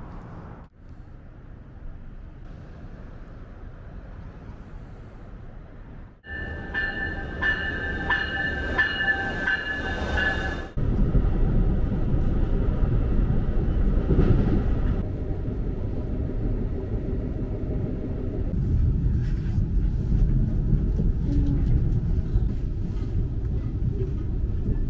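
Amtrak Empire Builder passenger train rolling on the rails, heard from inside the car: a steady low rumble that comes in loud about eleven seconds in and carries on. Before that, quieter background noise, with several seconds of a steady chord of high tones.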